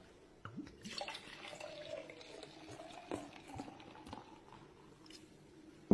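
Liquid being poured into a glass, a faint, uneven trickle.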